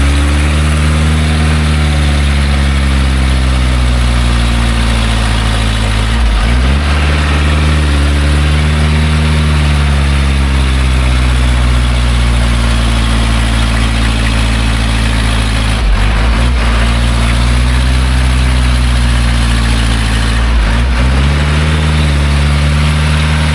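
Loaded logging truck's engine working hard on a muddy climb, its revs slowly rising and falling, with three sudden brief drops in revs before it picks up again.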